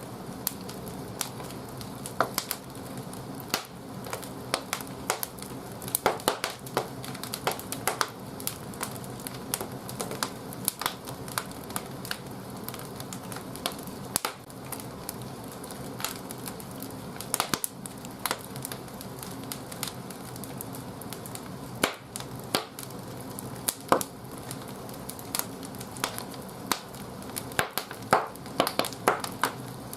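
Firewood burning in the firebox of an old wood-fired bathhouse boiler, crackling with many irregular sharp pops, over a steady low hum.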